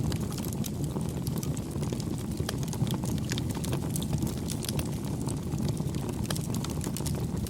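Campfire crackling: scattered sharp snaps and pops over a steady low rumble of burning.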